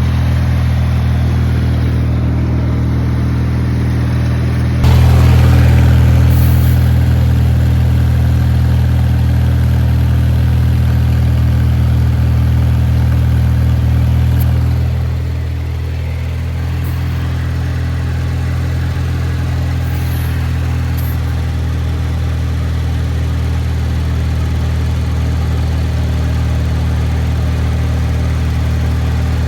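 Kohler 18 hp twin-cylinder engine of a Craftsman garden tractor running steadily. It gets suddenly louder about five seconds in and eases back down around fifteen seconds in.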